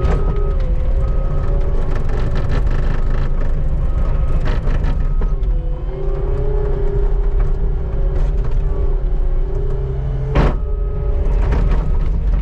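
Skid steer's engine running under load, with a pitched whine that wavers, while the bucket's edge scrapes along pavement clearing snow. There is a sharp knock about ten seconds in.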